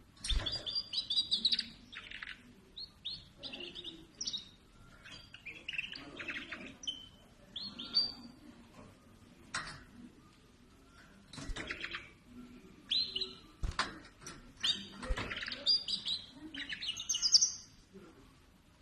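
Small finch singing in fast, twittering bursts of high chirps and trills, broken by short pauses. A few sharp knocks are heard among the song.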